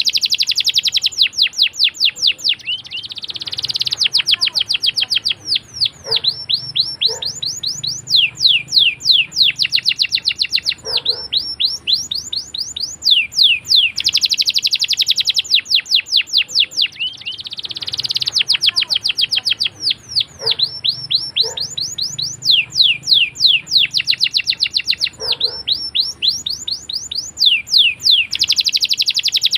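Domestic canary singing continuously in long, rapid rolling phrases: fast runs of repeated notes sweeping down in pitch, each phrase lasting a few seconds with short breaks between.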